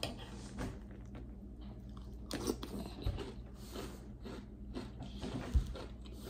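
Chewing a mouthful of crunchy chocolate Swiss roll cereal puffs in milk: a run of soft, irregular crunches.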